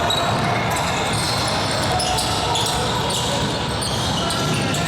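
Basketball being dribbled on a gym floor during a game, with voices carrying in the hall.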